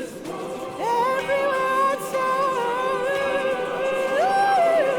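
Music: a single voice sings long, sliding notes without clear words, scooping up about a second in and rising to a higher held note near the end.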